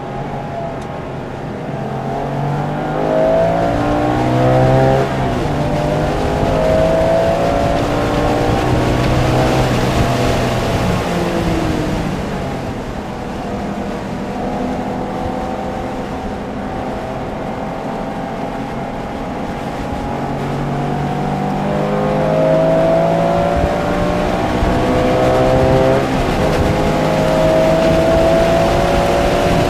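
Porsche engine heard from inside the car at track speed. It climbs in pitch through the gears several times, with drops in pitch where it shifts or slows for corners, and holds a steadier note for a while in the middle.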